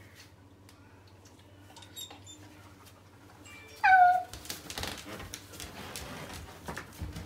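A dog gives one short, high-pitched yelp that falls in pitch, about four seconds in, followed by a few seconds of rustling and scuffling.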